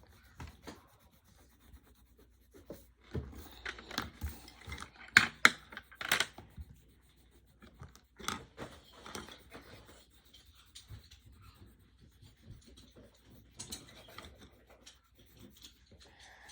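Pencil scratching and rubbing on paper in short irregular strokes, with a few sharp knocks a few seconds in as things are handled on the table.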